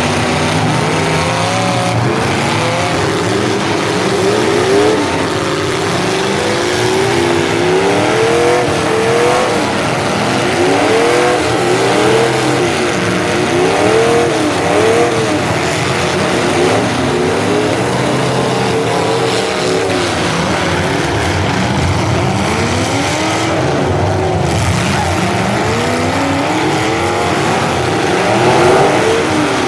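Several full-size demolition derby cars' engines running together, repeatedly revving up and dropping back in overlapping rises and falls as the cars accelerate and reverse.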